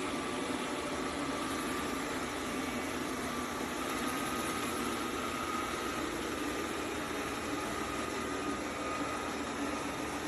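Robot vacuum running steadily: an even whirring hiss of its suction motor with a faint high whine and a low hum.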